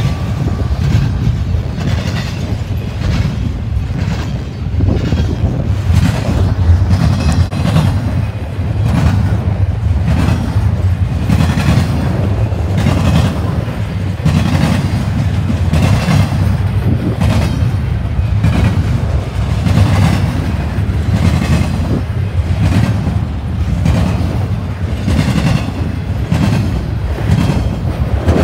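Double-stack intermodal freight cars rolling past at speed: a steady low rumble of steel wheels on rail, with regular clacks about once a second as the wheels cross rail joints.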